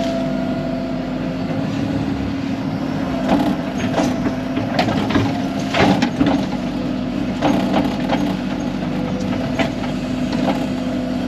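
Excavator's diesel engine running steadily while its bucket knocks and scrapes against hard mudstone rock under the mud, in a run of clatters from about three seconds in to near the end.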